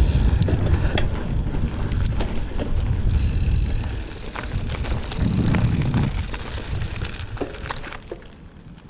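Giant Fathom 29 hardtail mountain bike rolling along a dirt trail, with wind rumbling on the microphone and scattered clicks and rattles from the tyres and drivetrain. The noise dies down near the end.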